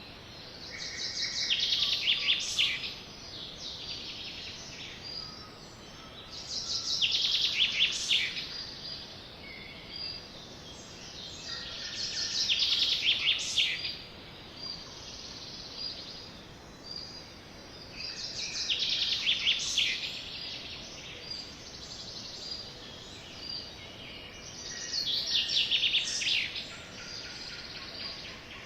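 A sparrow singing the same song about every six seconds, five times, each song a quick run of high notes lasting about two seconds, with fainter chirps between songs.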